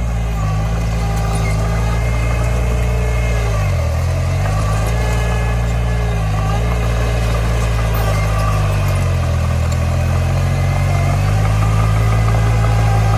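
Diesel engine of a Komatsu D20 crawler bulldozer running steadily while pushing dirt. Its speed dips briefly a couple of times and sags for a while as it takes load, then picks up again near the end.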